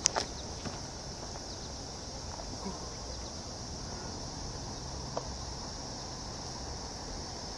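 Crickets chirping in a steady, high-pitched chorus, with a couple of faint clicks.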